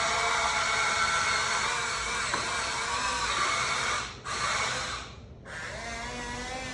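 Small electric motors of a Huina 1593 RC excavator whining as it is driven. The whine cuts off about four seconds in, comes back briefly, stops again, then restarts lower and climbs in pitch.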